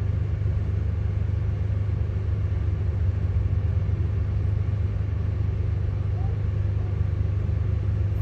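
Road traffic: a steady low rumble of vehicle engines.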